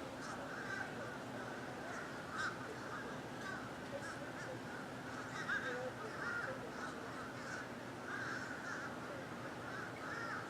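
A large flock of birds calling overhead, a dense, continuous chorus of many overlapping harsh calls with scattered higher squeaks.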